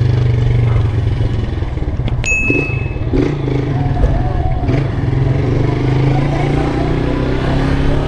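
Single-cylinder engine of a Honda CG 160 motorcycle running steadily under way. A short high beep is heard about two seconds in.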